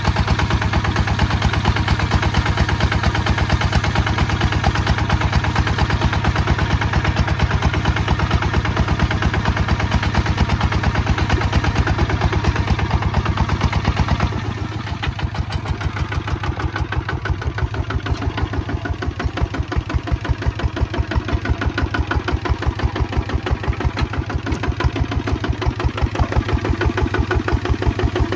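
Kubota ZT155 DI two-wheel tractor's single-cylinder diesel engine running with a steady, rapid chugging pulse. About halfway through it drops to a lower, quieter running.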